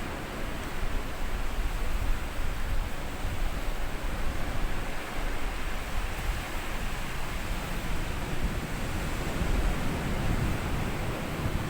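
Small sea waves breaking and washing up on a sandy beach, a continuous wash of surf that swells and eases gently, with a strong low rumble.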